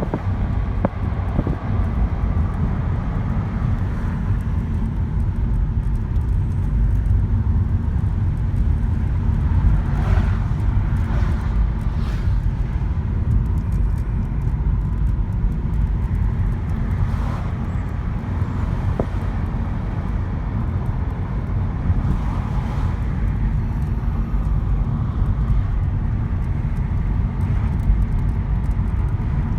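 Steady low rumble of a car driving, engine and tyre noise on the road.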